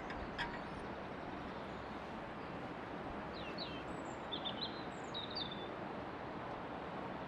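Steady outdoor background noise, with a small bird chirping several short, quick notes in the middle and one faint click about half a second in.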